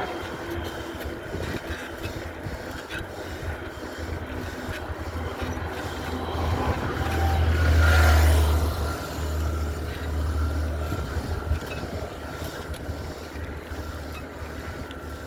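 Highway traffic with a steady low rumble. A vehicle passes close, loudest about eight seconds in, then fades.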